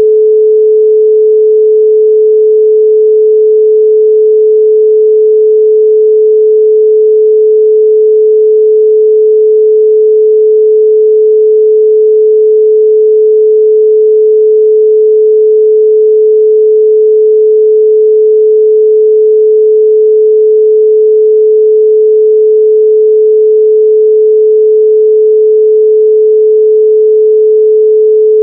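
Loud, steady 432 Hz pure sine tone: a single unchanging pitch with no overtones.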